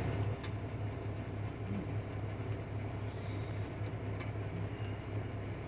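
Steady low drone of the semi truck's engine running, heard inside the cab, with a few faint clicks.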